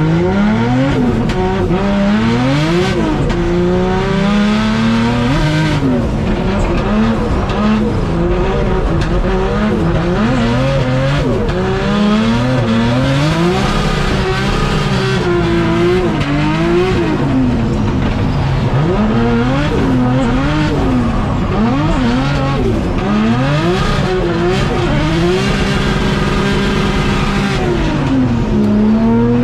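Drift car engine revving hard and falling back over and over through a drift run, with tyre squeal under it.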